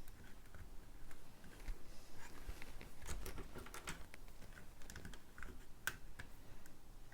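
Small plastic clicks and taps of LEGO pieces being handled while a light kit's thin LED cable is pushed into place in the model, the clicks coming thickest around the middle.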